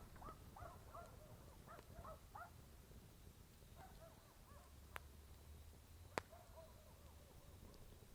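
A faint campfire gives two sharp crackling pops, about five and six seconds in, the second louder. Behind them, animals make many short, repeated chirping calls.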